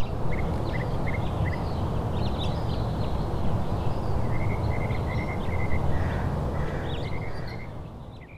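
Outdoor ambience: small birds chirping in short quick runs over a steady low rushing noise, fading out near the end.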